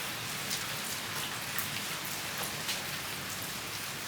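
Steady rain falling, an even hiss with individual drops landing as scattered sharp ticks at irregular intervals.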